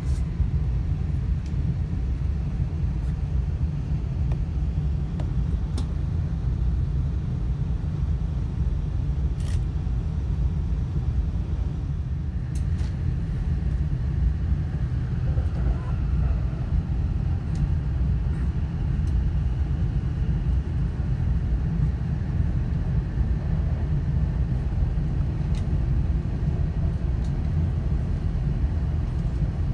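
Steady low rumble of a Joetsu Shinkansen running at speed, heard from inside the passenger cabin, with a few faint ticks.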